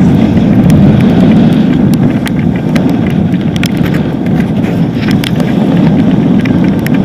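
Loud, steady rush of wind and road noise on the microphone of a moving motorcycle, with scattered sharp ticks throughout.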